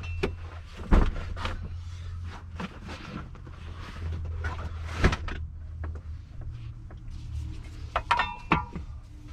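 Knocks, clunks and rattles of things being handled and moved inside a lorry cab, over a low steady hum. The loudest knocks come about a second in and about five seconds in, with a clattering, briefly ringing cluster near the end.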